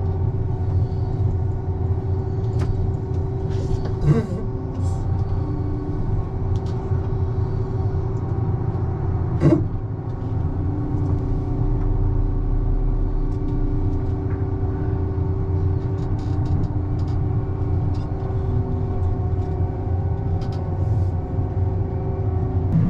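A vehicle's engine running steadily with a low rumble and a steady hum, and two short knocks about four and nine and a half seconds in.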